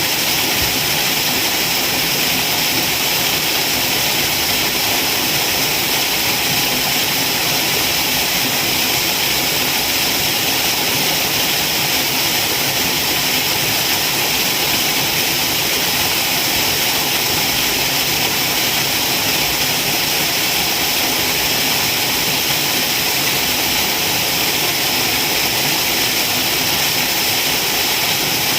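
Waterfall: a steady, even rush of falling water with a bright hiss.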